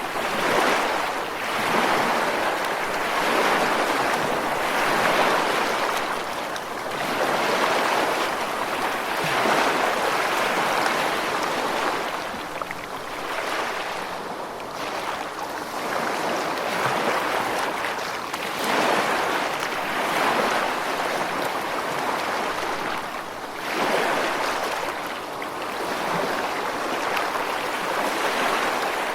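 Ocean waves washing on a shore: a steady rush of surf that swells and ebbs every few seconds.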